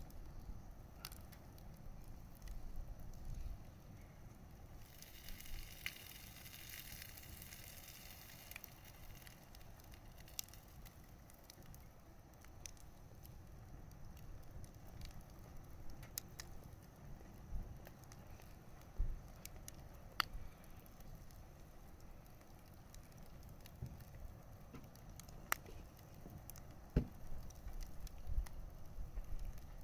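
Wood bonfire burning, crackling with scattered sharp pops over a low steady rumble of the flames. A hiss rises for a few seconds about five seconds in, and the strongest pops come about two-thirds of the way in and near the end.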